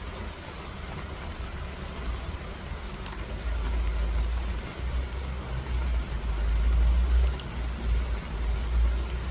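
Steady rain falling, with a deep, uneven low rumble that swells partway through and stays loud until near the end.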